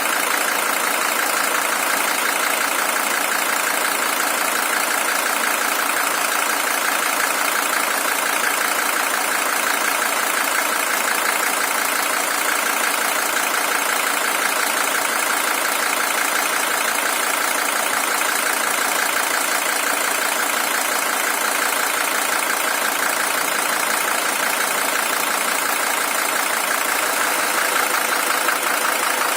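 Mercedes-Benz OM617 five-cylinder diesel engine idling steadily. This is the original engine, with 620,000 km on it.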